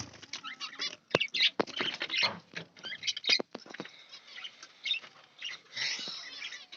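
Small cage birds chirping and chattering in short high calls, with scattered sharp clicks and taps among them.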